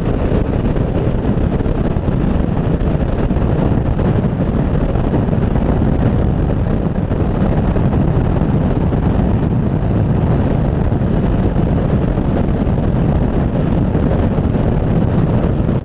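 Wind buffeting the microphone of a motorcycle riding at road speed, a loud, steady low rumble with engine and road noise mixed in.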